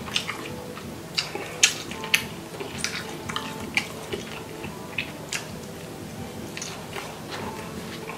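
Close-up eating sounds: wet chewing and lip-smacking in sharp, irregular clicks as a mouthful of fried rice is eaten, with a metal spoon scooping in a foam takeout container.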